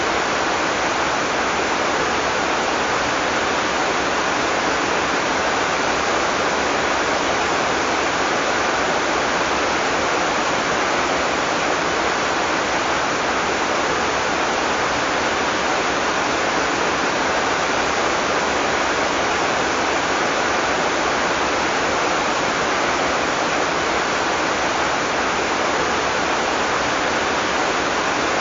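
Heavy tropical rain pouring down in a steady, dense hiss with no thunder.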